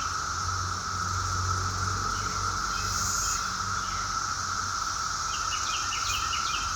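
Steady chorus of insects, a continuous high trilling at two pitches, with a bird singing a quick series of short chirps near the end.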